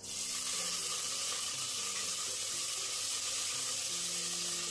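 Fresh mint leaves dropping into hot oil with frying green chillies: a sizzle starts suddenly and carries on as a steady hiss.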